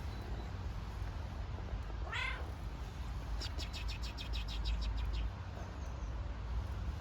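A kitten meows once, a short rising-and-falling call, about two seconds in. A quick run of sharp high ticks, about seven a second, follows for roughly two seconds, over a steady low rumble.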